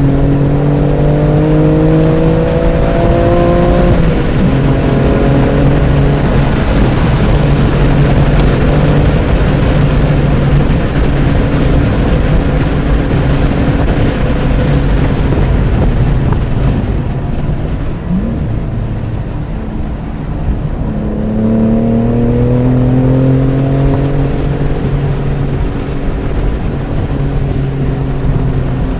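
BMW F80 M3 Competition's twin-turbo inline-six pulling hard under acceleration, with a gear change about four seconds in, over steady wind and tyre noise. Around the middle it eases off and goes quieter for a few seconds, then climbs in pitch again as it accelerates back up.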